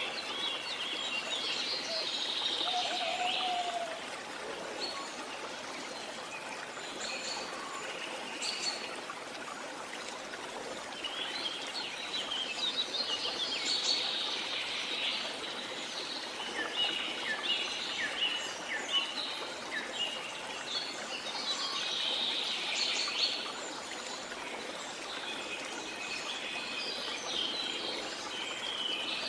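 Many birds calling and chirping in overlapping bursts of high, quick notes, with clusters of song coming and going, over a steady background rush of running water.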